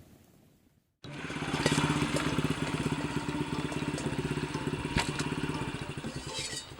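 Honda Super Cub's small single-cylinder four-stroke engine running steadily with a fast, even pulse, cutting in abruptly about a second in.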